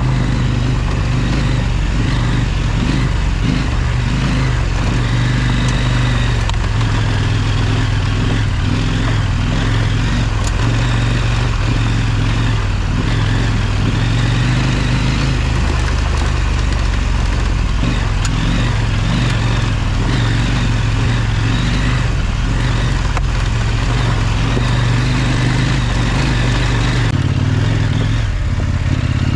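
Adventure motorcycle's parallel-twin engine running steadily under way on a dirt trail, with a broad rushing noise over it; the engine note shifts near the end.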